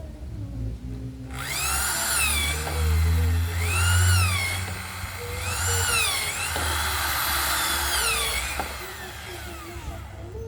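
Handheld electric drill running in several bursts, its motor whine rising and falling in pitch as the speed changes, over a low rumble.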